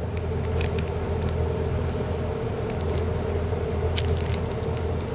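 Steady low mechanical hum with a few faint clicks over it.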